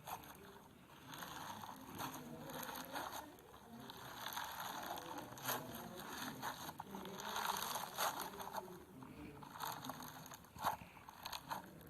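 Foam-bead (floam) slime being squeezed and pressed by hand, the beads crackling and popping in irregular bursts with sticky squishing.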